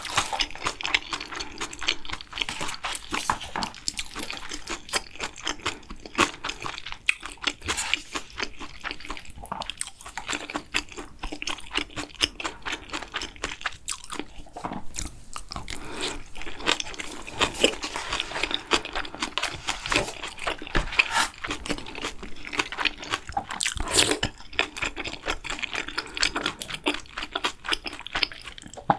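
Close-miked eating sounds: continuous wet chewing and crunching, thick with small mouth clicks, with a few louder sharp clicks along the way.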